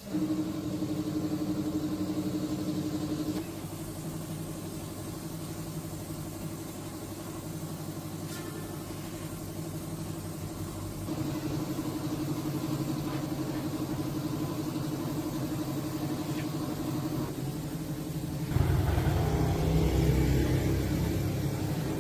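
Old tractor engine running steadily, its note and loudness shifting a few times, loudest and deepest near the end.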